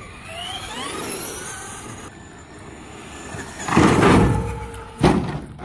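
Radio-controlled truck's electric motor whining and rising in pitch as it speeds up. About three and a half seconds in comes a loud rough rush, then a sharp knock about a second later: the truck taking off and landing on its jump.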